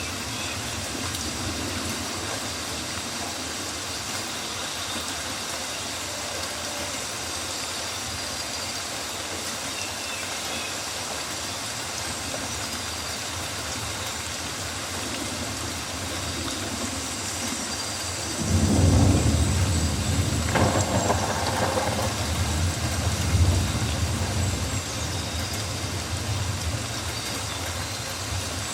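Steady rainfall on rainforest foliage, an even hiss, with faint high calls from birds or insects. About two-thirds of the way through, a deep rumble rises and runs for several seconds before easing back.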